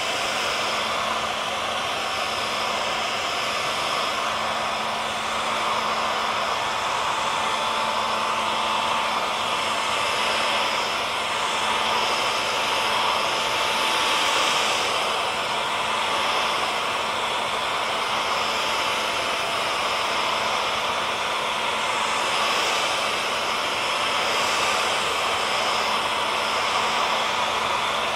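Electric hair dryer running steadily: a continuous rushing blow of air with a faint hum of the motor and fan underneath.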